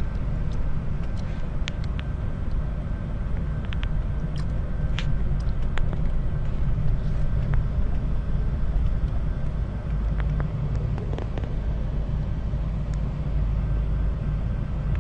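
A car driving on the road: a steady low rumble of engine and road noise, with a few faint light clicks.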